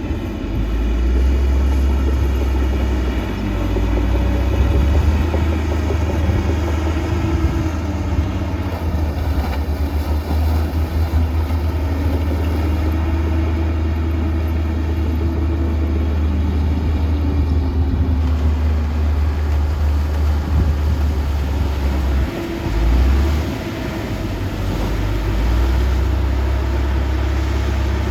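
Heavy diesel earthmoving machinery running under load with a deep, continuous rumble. The engine pitch rises and falls slowly as it works, with a short dip about two-thirds of the way through.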